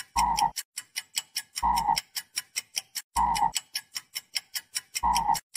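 A frog croaking four times, each croak short and about a second and a half to two seconds apart, over a fast, steady clock ticking.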